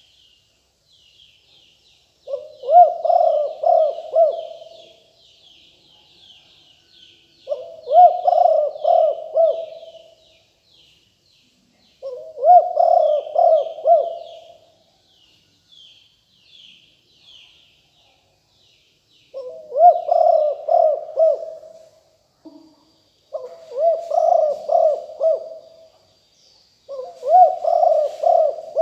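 Spotted dove cooing: six phrases of several quick, low coos each, coming every four to five seconds. Faint, high, rapid chirping carries on behind them.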